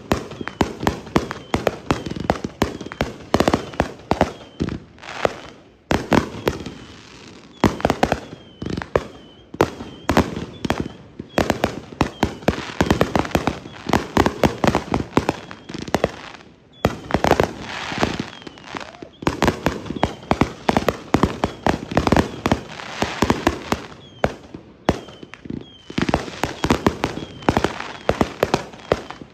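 Consumer fireworks cakes firing in a continuous barrage: many sharp bangs and crackling reports every second, overlapping, with a few brief dips in the firing.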